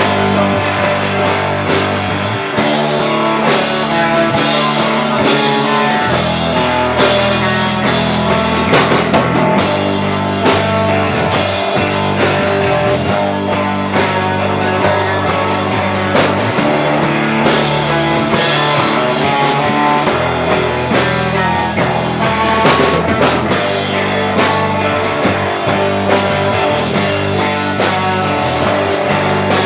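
Rock band playing an instrumental stretch of a song live: electric guitar, bass and a drum kit keeping a steady beat, with no singing.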